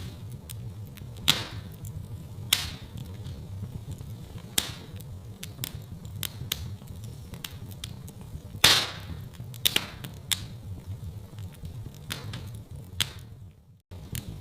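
Wood fire in a fireplace crackling, with irregular sharp pops over a steady low rumble; the loudest pop comes about nine seconds in. The sound cuts out for a moment just before the end.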